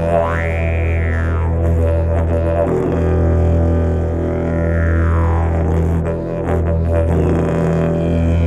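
Didgeridoo drone played continuously on one low note, with overtones sweeping up and down as the player's mouth shape changes, and short dips in the drone a little before 3 s and about 6 s in.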